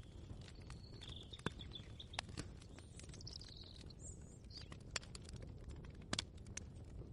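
Kitchen ambience: irregular light clicks and knocks over a low steady rumble, with a few brief bird chirps in the first half.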